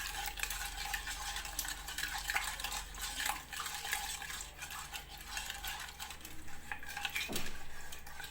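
A utensil stirring and clinking in a bowl, with many quick irregular scrapes and taps, as a lemon cream mixture of water, lemon juice, sugar and starch is beaten together before cooking.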